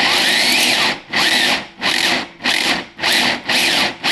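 Traxxas TRX-4 crawler's electric motor and two-speed transmission whirring up in about six short throttle bursts, each with a whine that rises and falls. The test shows the shift servo not holding the transmission in gear as tightly as it should.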